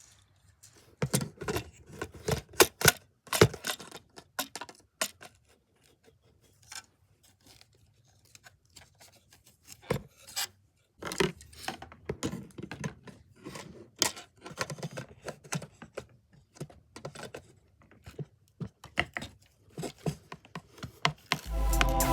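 Hands working on a model aircraft: scattered clicks, taps, rubbing and scraping of small parts being cut and handled, in bursts with a quieter pause in between.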